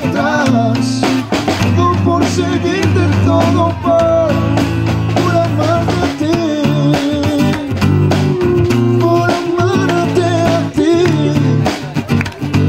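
A live band plays a worship song with acoustic guitar and drums keeping a steady beat.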